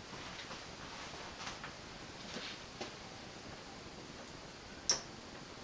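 1987 SMC CA52 ceiling fan running on high speed, about 200 RPM: a quiet steady whir with faint, irregular light ticks and one sharper click about five seconds in.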